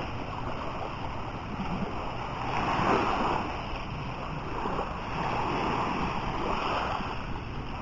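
Sea waves washing onto the beach, the surf swelling and easing every few seconds.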